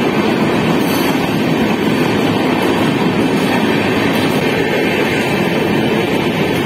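A train moving along the track gives a steady, continuous rumble of wheels on the rails.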